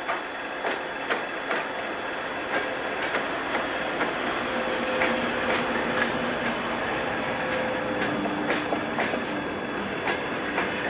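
Passenger coaches rolling slowly past, their wheels knocking over rail joints in irregular clacks over a steady rolling rumble. A faint steady squeal holds for a few seconds in the middle.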